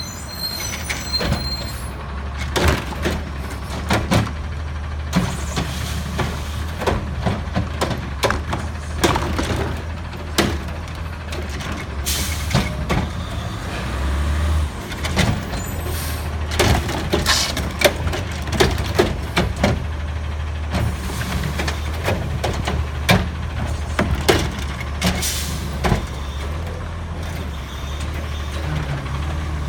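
Autocar ACX garbage truck with a McNeilus body and Curotto Can at work: the engine runs steadily while cans and yard waste are picked up and dumped, with many sharp bangs and clatters and a few hissing bursts.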